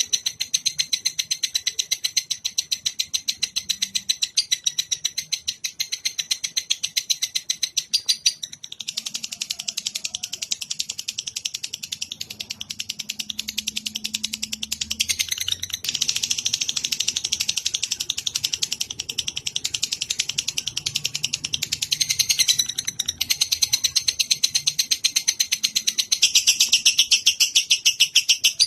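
Songbird tutoring ('masteran') recording of a bird's rapid, continuous high-pitched chattering trill, many notes a second. The pattern of the song changes every few seconds.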